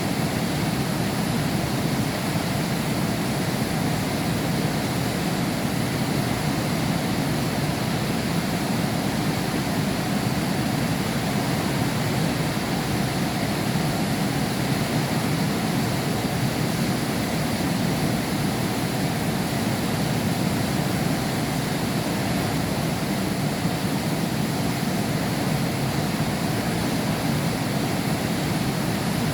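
Heavy rain falling steadily, heard from behind a window pane: an even, unbroken downpour with no thunder.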